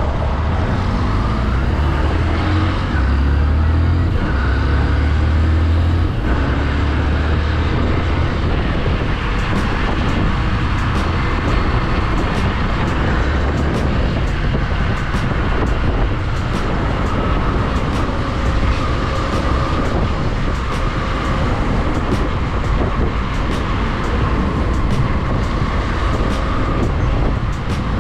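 Motorcycle being ridden: the engine runs steadily under a continuous rush of wind and road noise, its deep note shifting in the first six seconds.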